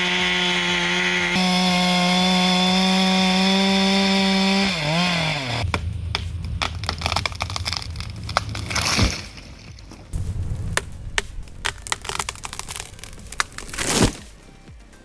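Chainsaw running steadily at high revs through a cut; the pitch steps up slightly early on, then the revs fall away and the saw stops about five seconds in. After that comes a run of sharp wood cracks and knocks, with two louder bursts later.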